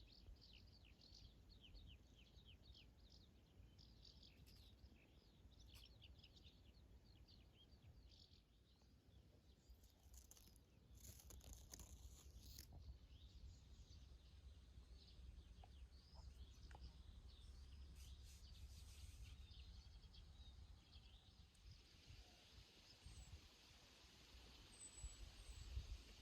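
Faint outdoor ambience: small birds chirping in quick, rapid runs over a steady low rumble, with a soft hiss coming in near the end.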